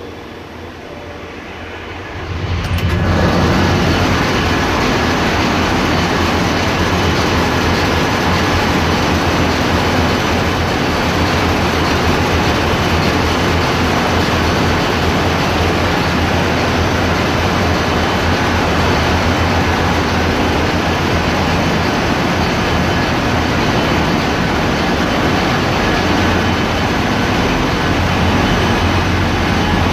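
Loud, continuous machinery noise of a ship's engine room, diesel machinery running. It swells about two and a half seconds in, then holds steady with a strong low hum under a dense roar.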